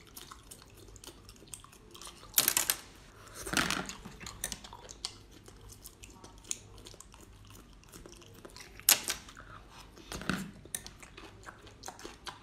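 Close-up chewing and crunching of small whole crabs bitten off a skewer, a steady run of small crackles and clicks. Two sharp, loud crunches stand out, about two and a half seconds in and again about nine seconds in.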